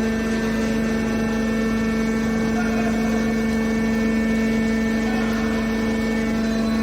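Horizontal hydraulic metal baler running, its electric motor and hydraulic pump giving a steady hum with a strong even tone that slowly grows a little louder.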